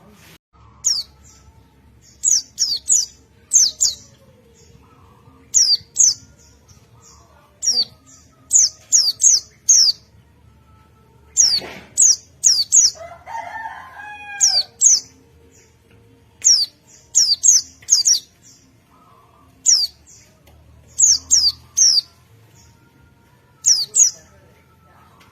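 White-eye (pleci) singing in the 'ngalas' style: sharp, high chirps that sweep downward, in quick clusters of two to four, repeated every second or two. A lower warbling call comes in briefly about halfway through.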